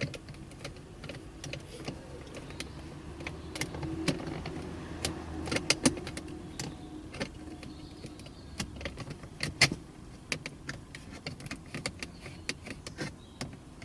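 Irregular clicks and taps of a plastic trim cover and small screws being handled and fitted, as the panel around a Mercedes W208 headlight switch is put back on.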